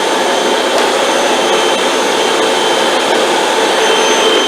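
Hoover WindTunnel 2 bagless upright vacuum cleaner running steadily: a loud rush of air with a steady motor whine over it.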